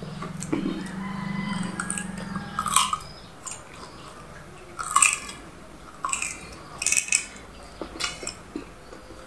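A man chewing food close to the microphone, with loud wet mouth smacks every second or so; the loudest comes about halfway through.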